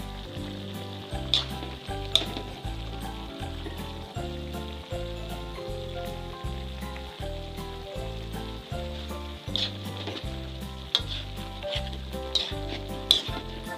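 Chicken and tomato paste sizzling in a wok while a utensil stirs, with sharp scrapes and clacks against the pan several times. Background music with a steady beat, about two a second, plays underneath.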